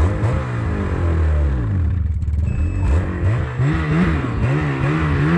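A petrol engine running and revved up and down repeatedly, its pitch rising and falling several times a second in the second half.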